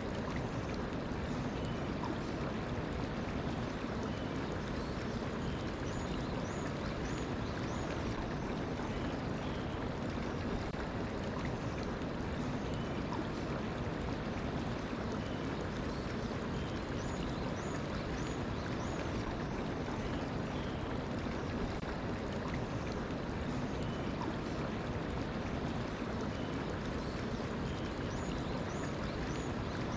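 Mountain stream flowing steadily, with faint bird chirps over it: quick high notes in groups of three or four that come back roughly every ten seconds.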